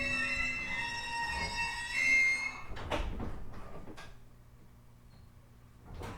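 JR East E127 series electric train braking to a stop: several high squealing tones sound together and die away about three seconds in. A few sharp clicks and knocks follow as it halts, then only a low steady hum.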